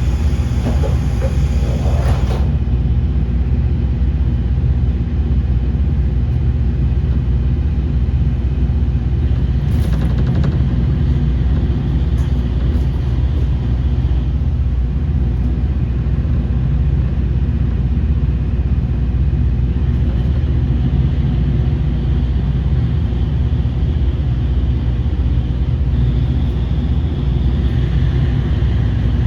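KiHa 40 series diesel railcar running, its diesel engine giving a steady, loud low drone. There is a brief hissing noise at the start, a sharp click about ten seconds in, and a higher tone that comes in near the end.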